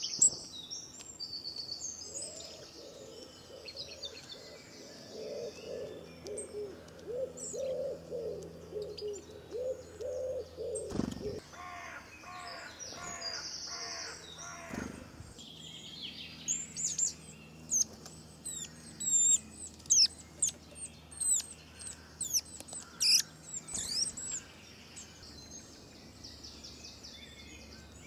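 Birds chirping outdoors. A lower call repeats several times in the first half, and a burst of sharp, high chirps in quick succession, the loudest sounds, comes in the second half.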